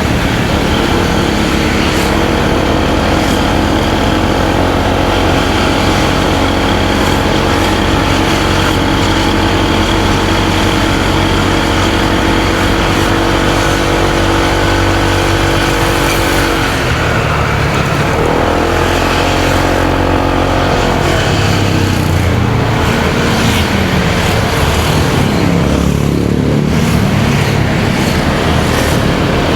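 Motorcycle engine running under load with wind and road noise. The revs hold steady for the first half, then fall and climb again twice in the second half.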